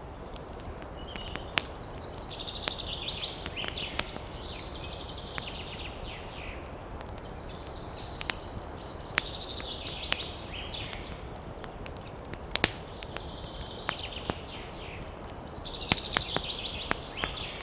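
Campfire crackling, with irregular sharp pops, over a steady low rumble. A bird's high chattering trill comes and goes four times, each lasting a second or two.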